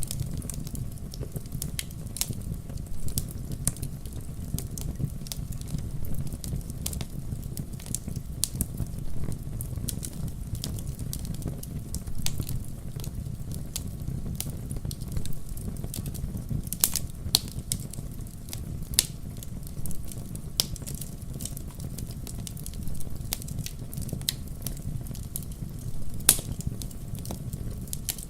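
Wood fire burning in a fireplace: a steady low rumble of flames with frequent irregular sharp crackles and pops, a few louder snaps among them.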